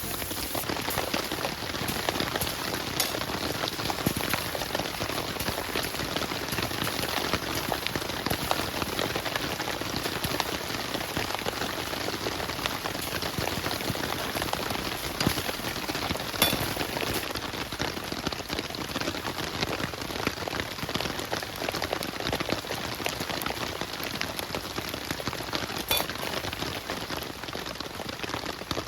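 Heavy rain falling, a dense steady patter of drops with a few louder single drip hits.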